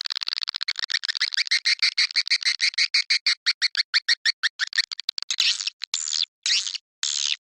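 Recorded edible-nest swiftlet calls of the kind played to lure swiftlets into a nesting house: a fast run of short clicking chirps for about five seconds, then separate, longer twittering chirps with short gaps between them.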